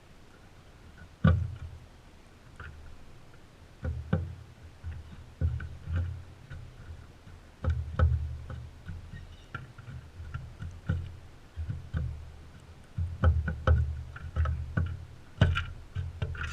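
Irregular knocks and thuds right at the microphone, from crimson rosellas' beaks and feet on a feeder beside the GoPro. They come every second or two at first and pile up more thickly near the end.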